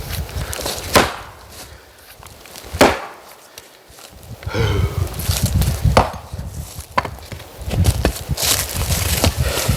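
Oak firewood being chopped: a handful of sharp, separate strikes into wood, spaced unevenly a second or more apart.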